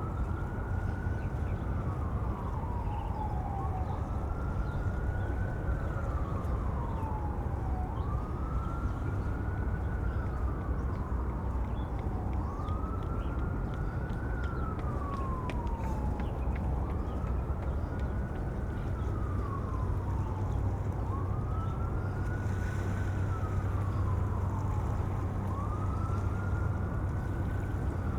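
Emergency vehicle siren in a slow wail, the pitch sweeping quickly up and then sliding slowly down about every four seconds, seven times over, above a steady low rumble.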